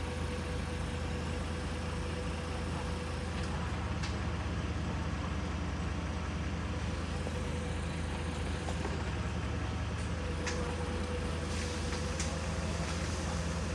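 A large engine running steadily with an even low hum, with a few light clicks and knocks from the work.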